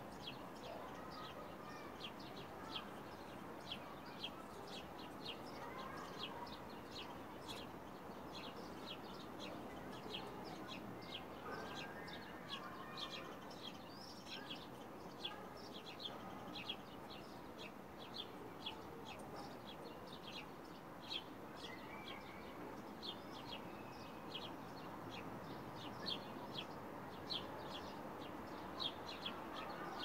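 Small birds chirping steadily, a run of short high chirps, two or three a second, over a constant low background noise.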